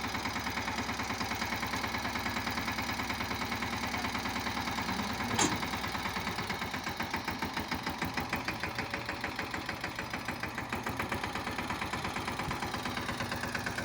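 Mahindra Yuvraj 215 mini tractor's single-cylinder diesel engine running with a steady, rapid pulsing beat. A single brief sharp knock comes about five seconds in.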